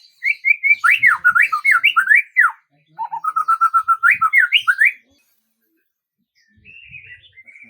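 A songbird singing loud phrases of quick, repeated whistled notes that sweep up and down, then falling silent about five seconds in before softer twittering resumes near the end.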